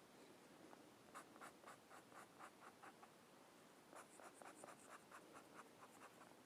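Faint colouring strokes on paper, a rapid back-and-forth scratching of about four strokes a second. It comes in two runs with a short pause in the middle.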